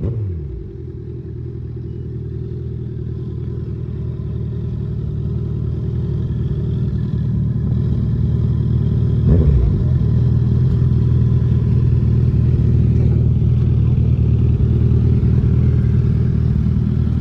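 Motorcycle engine running under way, a steady low drone that grows louder over the first several seconds and then holds, with a brief drop and recovery in pitch about nine seconds in.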